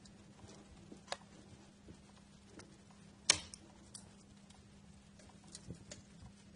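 Wood fire crackling in a fireplace: scattered sharp pops and snaps over a quiet background, the loudest pop about halfway through and a cluster of smaller ones near the end.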